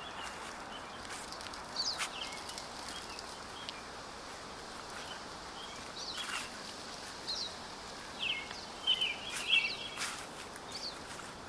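Small songbirds giving short, high chirps and call notes, scattered and then thicker near the end, over a steady outdoor background hiss.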